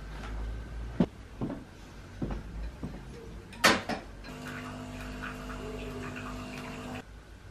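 Household handling noises: several knocks and clacks, the loudest nearly four seconds in, then a steady humming drone with several tones that starts abruptly and cuts off about three seconds later.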